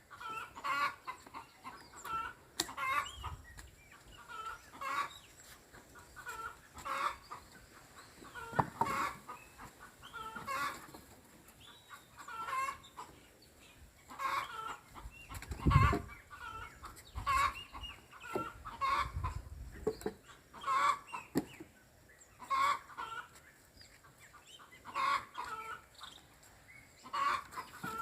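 Chickens clucking over and over in short calls, with a single low thump about halfway through.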